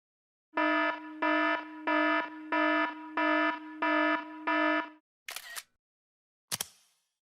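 iPhone alarm tone: seven even electronic beeps of about half a second each, a little over one a second. It is followed by a short iPhone camera-shutter sound and then a single sharp click.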